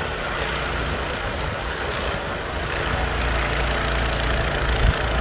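Snowblower engine running steadily while it clears deep snow, a low hum that grows a little louder about three seconds in.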